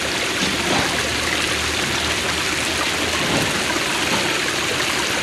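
Creek water running, a steady rushing noise.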